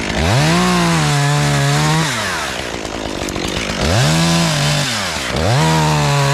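Two-stroke chainsaw revved to full throttle three times, each burst lasting one to two seconds before it drops back to idle. Each time, the engine note sags a little while it is held, as it does when the chain is working into the wood.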